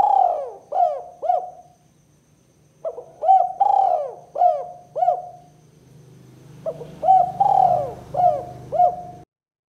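Spotted dove (tekukur) cooing in its 'kuk 2' style: three phrases of several short, rounded coos, about three seconds apart. The sound cuts off suddenly near the end.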